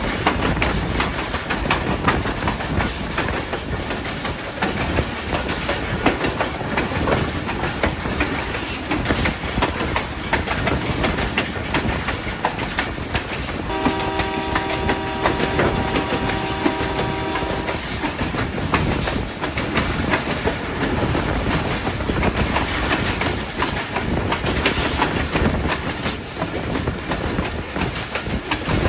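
Hazara Express passenger train running on the rails, a steady rumble with the clickety-clack of wheels over rail joints. About halfway through, the train's horn sounds one steady blast of about four seconds.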